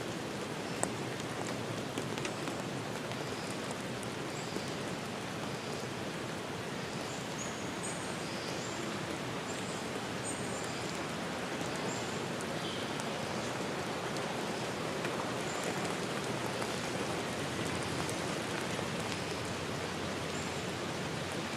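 Steady rush of flowing river water, with birds giving short high chirps now and then over it.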